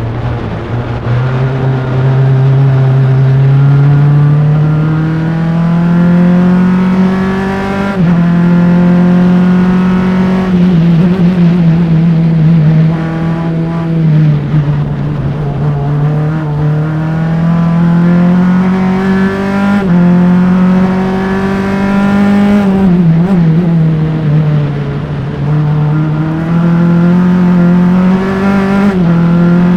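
Single-seater formula race car's engine at racing speed, recorded close to the engine. It pulls up through the revs in long climbs with quick gear changes, and drops back sharply several times under braking and downshifts into corners.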